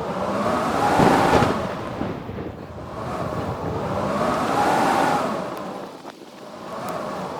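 Blizzard wind blowing in strong surges, swelling and dying away every few seconds, with a whistling tone that rises and falls in each gust.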